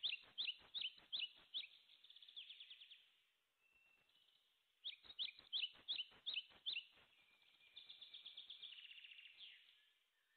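A small songbird singing two phrases, each a run of about six sharp chirps followed by a quick trill.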